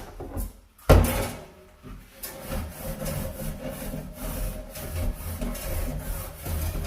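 A brush scrubbing a dirty stove or oven surface by hand in quick back-and-forth strokes. There is a sharp knock about a second in, before the scrubbing settles into a steady rhythm.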